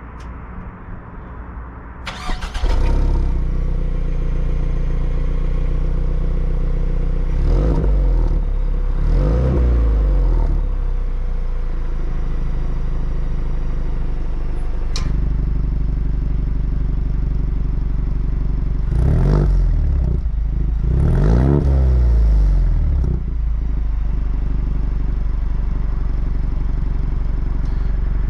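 2024 Ford Mustang EcoBoost's 2.3-litre turbocharged four-cylinder, fitted with active exhaust, starting a couple of seconds in and settling to a steady idle. It is then blipped in two pairs of short revs that rise and fall in pitch, with a sharp click midway.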